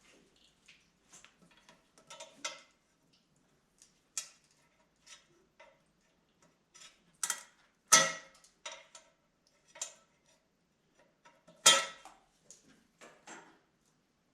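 Irregular metallic clicks and clinks of tools and engine parts being handled during an engine removal, with two sharper metal clanks about eight and twelve seconds in.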